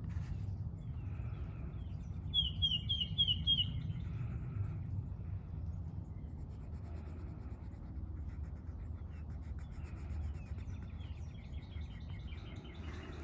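A songbird chirps a quick run of about five sharp notes a couple of seconds in, with fainter bird calls later. Beneath it are a steady low outdoor rumble and the faint scratching of coloring on paper.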